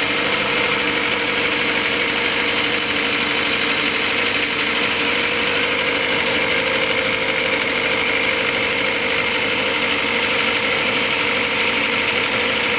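Freshly rebuilt Reliant 850 cc four-cylinder engine running steadily at idle on a test bench, its exhaust led out through a vacuum cleaner hose. It runs evenly and, by its owner's ear, doesn't sound too bad.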